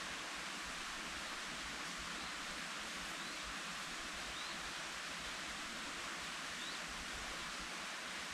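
Steady, even rushing hiss of outdoor forest ambience, with three faint short high chirps in the middle.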